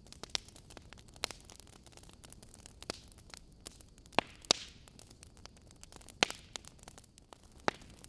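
Wood fire burning in a fireplace: irregular sharp crackles and pops of burning logs over a soft steady hiss, with a few louder pops in the second half.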